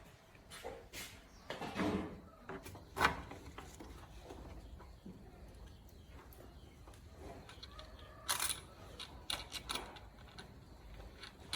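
Scattered light knocks and clicks of workshop handling, with the planer not running. The sharpest knock comes about 3 seconds in, and a cluster of quick clicks follows near the end.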